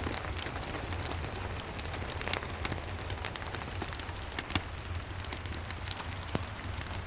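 Steady rain mixed with a wood fire crackling, with scattered sharp pops, over a low steady rumble.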